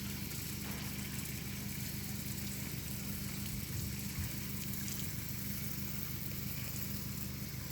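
A steady, low motor hum that does not change, over a light hiss of noise.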